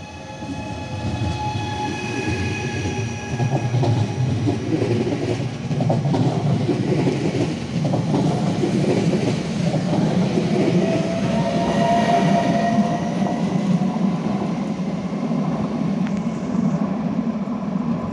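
Regional passenger train running past close by: steady rumble and clatter of its wheels on the rails, with a high whining tone riding on top. It builds up over the first seconds, stays loud through the middle and eases a little near the end.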